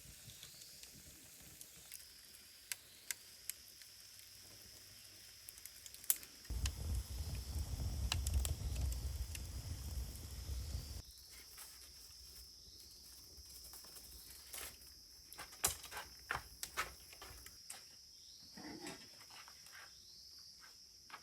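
Insects chirring steadily at night in a high continuous tone, with scattered light clicks and taps. A louder low rumble runs for about four seconds, a third of the way in.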